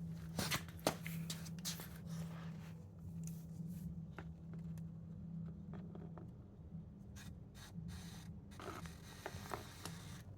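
Light scraping, rubbing and scattered small clicks of objects being handled, over a steady low hum.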